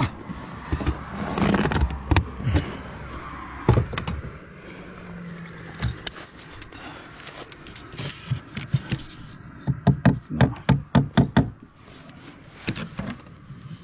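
Hammer knocks while nailing fibre-cement slates, in scattered single blows and then a quick run of about eight strikes around ten seconds in.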